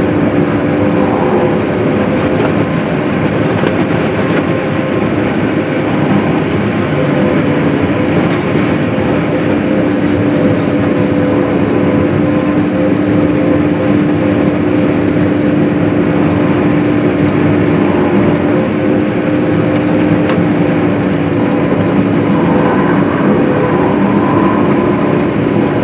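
Case IH self-propelled swather running steadily while cutting hay, an even engine and machinery drone with a steady hum.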